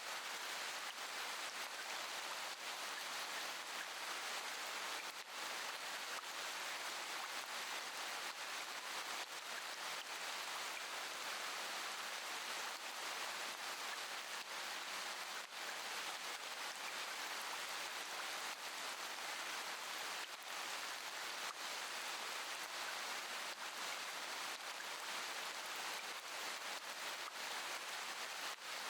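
Steady, even rain, a dense hiss of falling drops with no single drops standing out.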